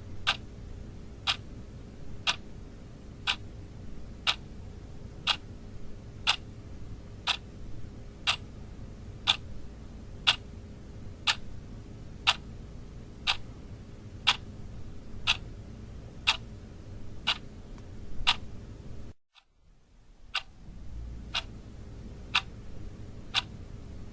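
Clock ticking about twice a second, alternating louder and softer ticks like a tick-tock. About 19 seconds in the sound cuts out for roughly a second, then the ticking resumes.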